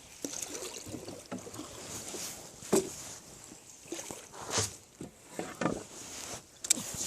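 Water splashing and sloshing in irregular strokes, a few sharper splashes standing out among a continuous churning of water.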